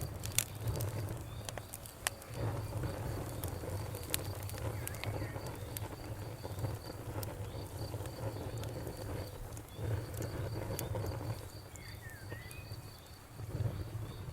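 Campfire crackling with sharp pops, mostly in the first few seconds, over a cricket's steady high pulsing chirp and a low rushing sound of a river that swells and dips.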